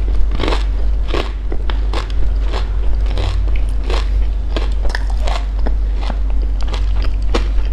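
Close-up chewing of a bánh cam: a deep-fried sesame-coated glutinous rice ball with a brown-sugar glaze and mung bean filling. The crisp sugar crust and shell crunch irregularly, about one or two crunches a second, over a low steady hum.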